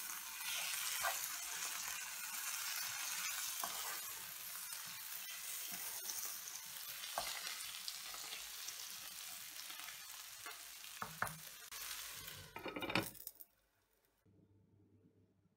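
Sliced onions and peppers sizzling as they fry in a nonstick pan, stirred with a wooden spoon that scrapes and knocks against the pan now and then. A louder clatter comes near the end, then the sizzling cuts off to near silence.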